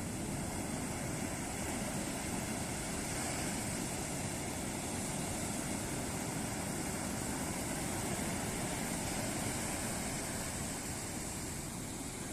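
Ocean surf breaking on a beach: a continuous wash of waves that swells a little through the middle and eases slightly near the end.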